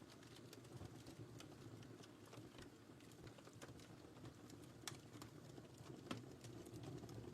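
Fire burning in a fireplace: a low, steady flame rumble with frequent sharp, irregular crackles and pops.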